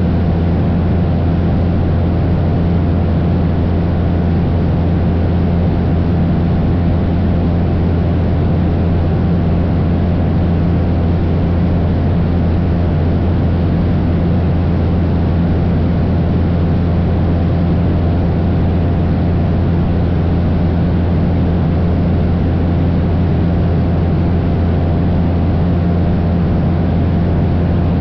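Cessna 172 piston engine and propeller running at a steady cruise setting: a loud, unchanging low drone with a deep hum under a wash of wind noise.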